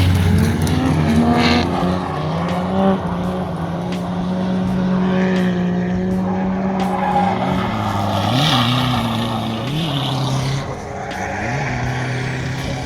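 A pit bike's motor running: its pitch climbs over the first two seconds and then holds steady, with a few quick revs from about seven seconds in.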